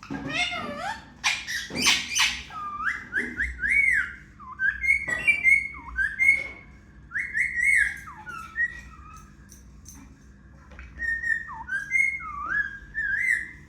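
Indian ringneck parrot whistling and chirping: a run of short whistled notes that slide up and down in pitch, with a quieter pause midway.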